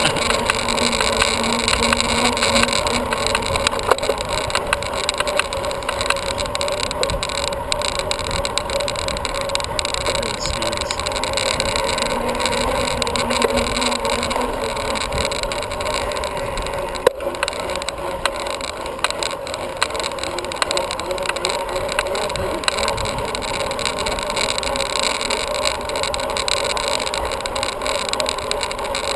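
Steady rush of wind on a GoPro camera's microphone during a bicycle ride, with a few light clicks.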